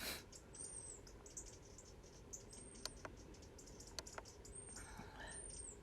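Scattered plastic clicks of a wildlife trail camera being handled and its buttons pressed. A few short, high chirps recur faintly behind them.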